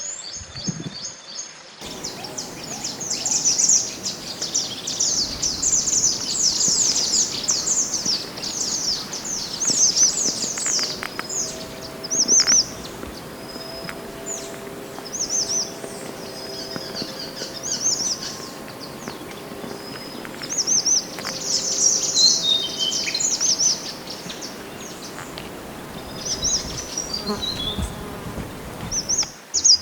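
Mantenan gunung songbird singing: rapid high chirps and quick sweeping notes in dense runs, with short pauses between phrases and a descending run of notes about two-thirds of the way through.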